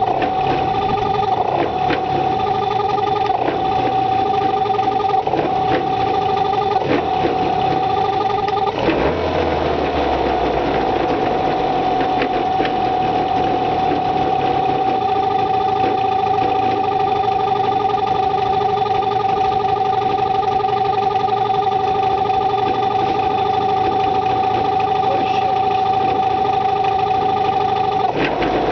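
Small outboard boat motor running on its first start after winter storage while its idle is being set. In the first nine seconds the engine note dips briefly every second or so, then after a short change about nine seconds in it holds a steady, even note.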